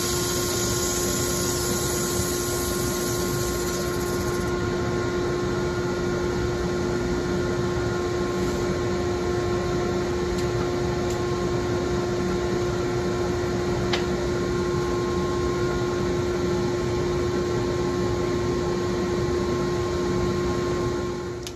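A small electric motor-driven machine running steadily with a constant hum, winding down right at the end.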